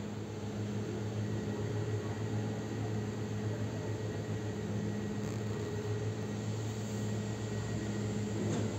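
Steady low hum of a distant electric train and railway ambience, with a thin high whine joining about a second in.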